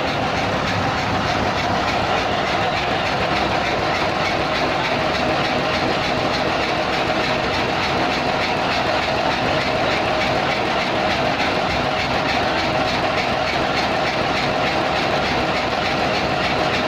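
Cummins diesel engine running steadily at a constant speed, a loud, even, rapid chugging.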